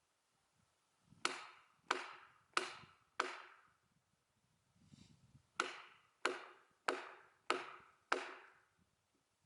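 Repeated blows driving a splitting wedge into an oak log, each with a short ringing decay: four strikes at an even pace, a pause, then five more.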